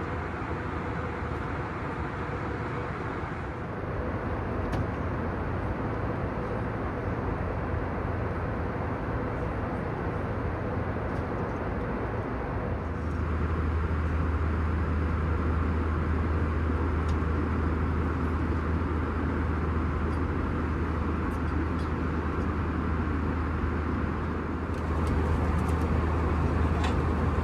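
Steady cabin drone of an Airbus A321 in flight: engine and airflow noise heard from inside the cabin. It grows louder about halfway through, with a deeper hum coming in.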